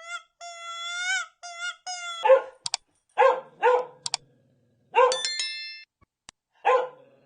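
A dog barking five times, after about two seconds of high, wavering whining.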